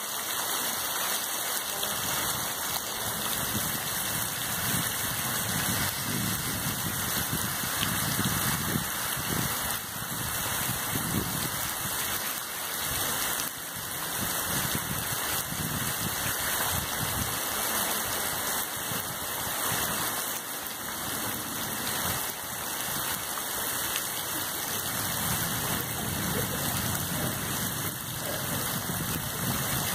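Heavy tropical rain pouring steadily on the forest and ground, a continuous even hiss.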